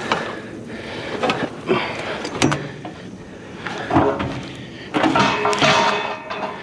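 A series of knocks, clatters and scrapes as scrap items such as a chair are shifted around in a load.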